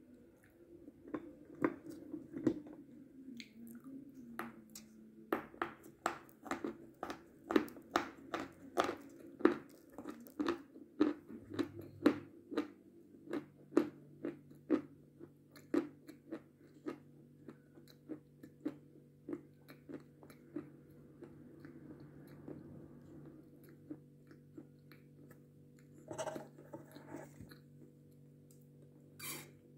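Close-up chewing of a dry, powdery chocolate candy: a run of crisp crunching chews, about one and a half a second, thinning out in the second half.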